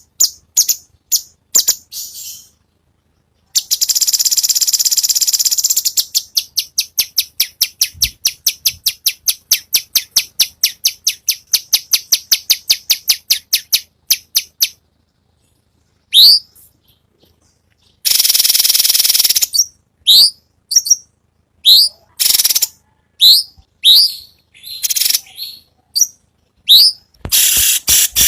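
Cucak cungkok calling: a harsh, buzzy rattle, then a long run of quick repeated chips at about five a second that fade out, and, after a second buzzy rattle, a string of sharp, rising call notes spaced about a second apart. The harsh rattling is the 'besetan' that bird-song trainers value for teaching songbirds.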